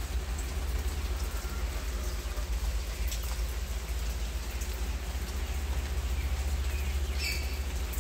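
Steady rain falling on tree foliage, with a steady low rumble underneath. A short high chirp sounds near the end.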